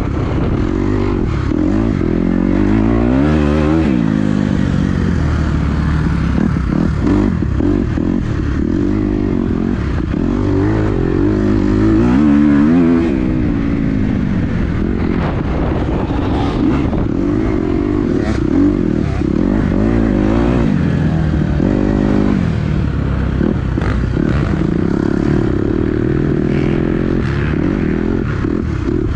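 Dirt bike engine ridden hard, its pitch climbing and dropping again and again as the throttle is opened and shut, with scattered clicks and clatter from the bike.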